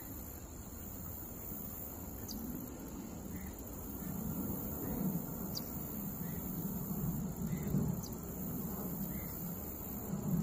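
Outdoor ambience: a steady high-pitched insect drone, with a short, high, falling chirp every two to three seconds, over a low, uneven rumble.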